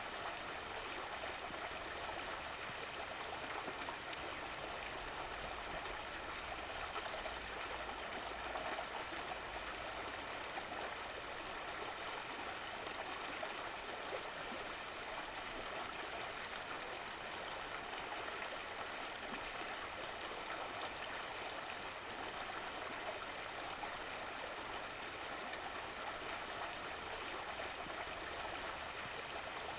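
Running water of a small stream flowing and trickling steadily, with no breaks.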